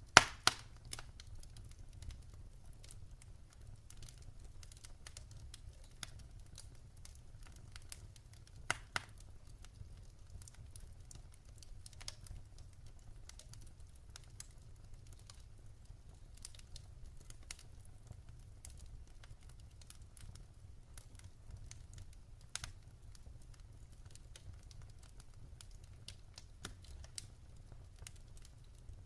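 Firewood burning in a fireplace, crackling with scattered small ticks and pops over a faint low rumble, and a few louder pops: one right at the start, one about nine seconds in, and one a little past twenty seconds.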